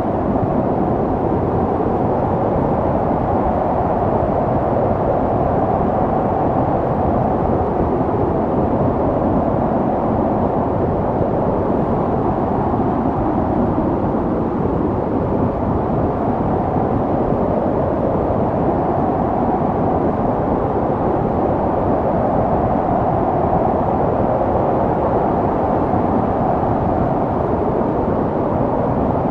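Snowstorm wind blowing steadily, a dull, low rushing noise that swells and eases slowly.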